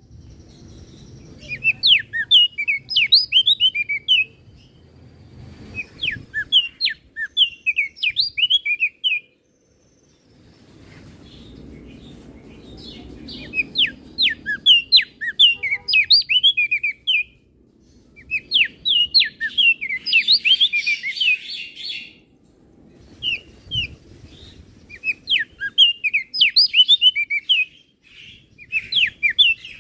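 Crested darkeye (opior jambul) singing: rapid, chattering phrases of high, quickly sliding notes, each a few seconds long, repeated about five times with short pauses between them.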